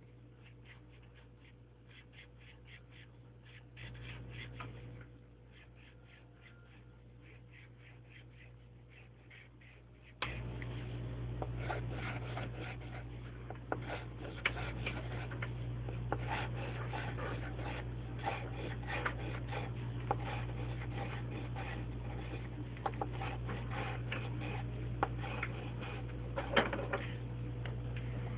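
Quick, repeated scratching strokes of a drawing tool on paper over a steady low electrical hum; everything gets louder about a third of the way in.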